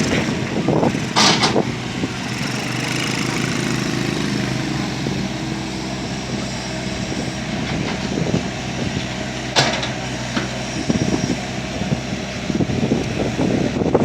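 Excavator's diesel engine running steadily, with two sharp knocks, one about a second in and one near ten seconds in.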